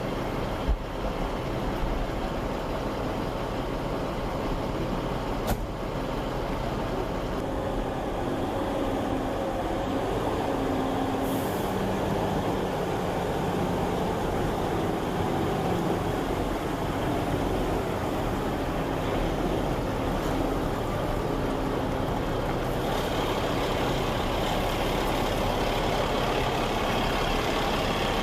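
Heavy engine running steadily under a dense rushing noise, with a low hum beneath.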